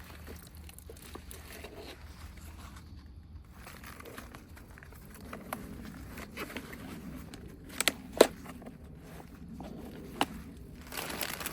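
Handling noises of potting plants: soil and pots being moved and rustled, with scattered light knocks and a couple of sharp clicks about eight seconds in and another near ten seconds, over a low steady hum.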